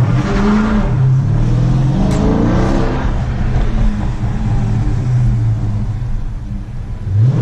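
Car engine revving: it climbs in pitch over the first few seconds, settles back to a steady idle, and rises again near the end.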